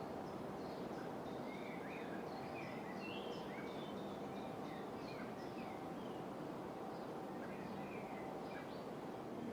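Several small birds chirping in short, quick calls, scattered all through, over a steady background hiss of outdoor ambience.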